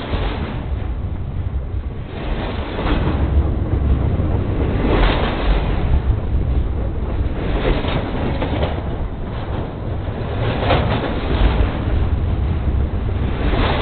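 A train rolling directly over the track, heard from the ballast between the rails: a loud, steady low rumble with wheel clatter that swells about every two and a half to three seconds as the wheels pass over.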